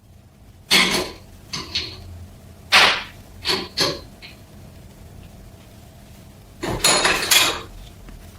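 Metal parts knocking and clinking on a workbench: a handful of separate sharp knocks in the first four seconds, a pause, then a quick cluster of clatter near the end.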